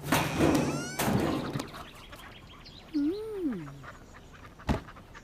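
Cartoon sound effects: two noisy swooshes, a short pitched call that rises then falls about three seconds in, and a sharp knock near the end.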